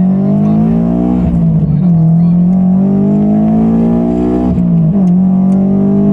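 Subaru BRZ's flat-four engine, fitted with a catless header and straight-piped exhaust, heard loud from inside the cabin under hard acceleration. The engine note climbs, drops with an upshift about a second and a half in, climbs again and drops with another upshift near five seconds, then climbs once more.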